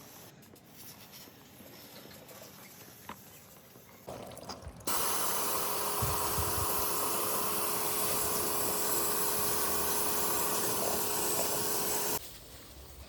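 A spray jet hissing steadily for about seven seconds, then cutting off suddenly, with a faint steady tone under it; this is water or cleaning solution being sprayed onto a split air-conditioner's indoor unit during cleaning.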